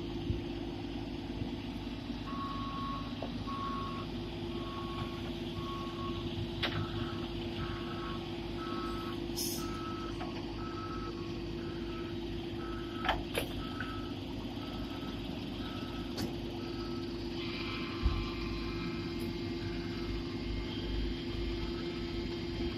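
Vehicle backup alarms beeping steadily, about one beep a second, starting about two seconds in. A second, higher-pitched alarm takes over partway through, and both sound later on, over a steady engine hum with a few knocks.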